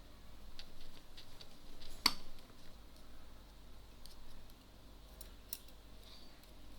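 Scattered small clicks and taps of tools and small parts being handled on a workbench, with one sharp, louder click about two seconds in.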